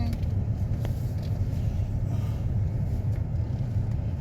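Steady low rumble of a vehicle's engine and road noise, heard from inside the cab as it moves slowly.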